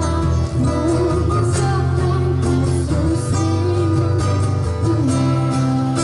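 Busking band playing amplified music: guitar over a steady bass line, with a singing voice.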